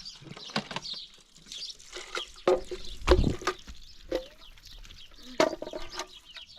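Birds chirping and calling in short high notes, with several sharp knocks, the loudest about three seconds in.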